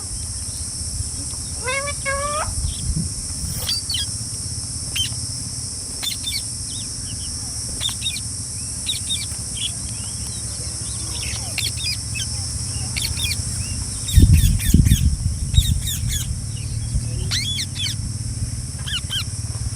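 Pet green parrots giving short, sharp chirping calls scattered through, over a steady high-pitched insect drone. A low rumble comes about fourteen seconds in.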